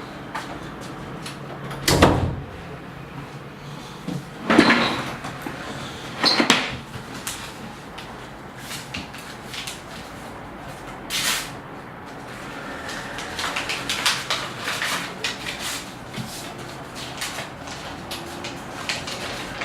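Scattered knocks and thuds like doors or cupboards being handled, the strongest about two, four and a half and six and a half seconds in, with a sharper one near the middle and a run of lighter clicks later.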